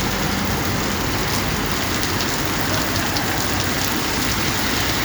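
Steady heavy rain falling on hard surfaces, an even hiss with scattered drop ticks.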